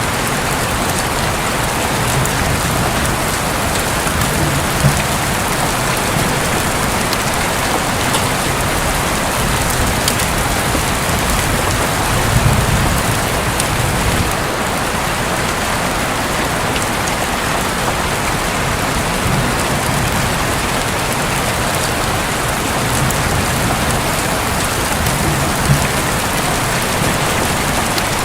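Heavy rain falling steadily on a roof, with scattered sharp drop ticks. A few brief low rumbles of thunder swell under it, the strongest about twelve seconds in.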